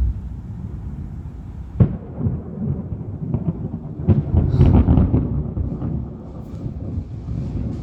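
Thunder during a severe thunderstorm: a sharp crack about two seconds in, then a longer crackling rumble about four seconds in, over a steady low rumble.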